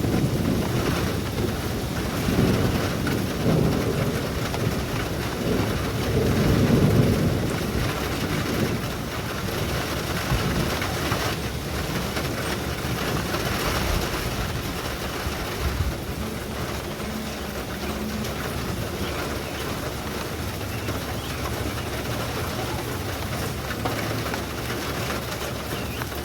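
Steady rain during a thunderstorm, with a low rumble of thunder rolling through the first several seconds and loudest about a third of the way in.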